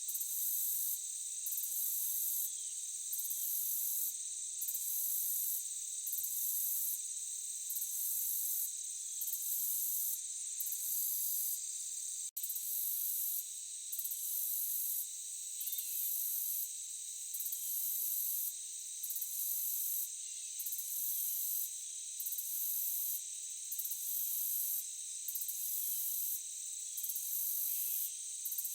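Chorus of crickets and other insects: a steady high trilling, with a still higher layer that pulses on and off about every second and a half. The whole sound cuts out for an instant about twelve seconds in.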